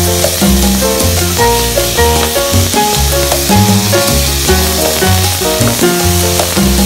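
Raw chicken pieces sizzling in a hot pan as they are stirred with a wooden spoon, under louder background music with a bass line and a melody.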